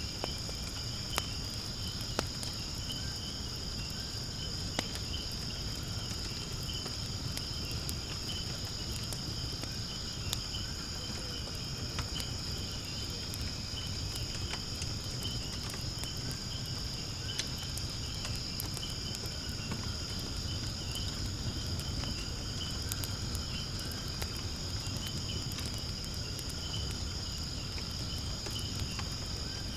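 Wood fire burning in a fire pit, giving off scattered sharp crackles and pops, over a steady high-pitched chorus of insects.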